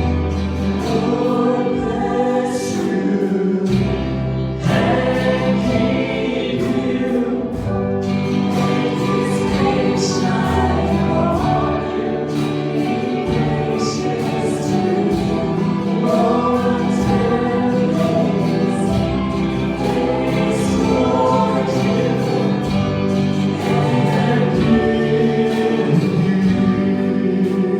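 A group of voices singing a gospel song with instrumental accompaniment and a sustained bass line.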